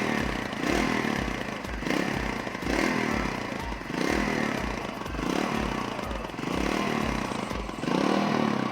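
TVS Radeon 110 cc single-cylinder motorcycle engine running, heard through its exhaust silencer with a steady low thud. The sound swells and eases about once a second. The reviewer says it gives something of a Royal Enfield-type feel, though not like that.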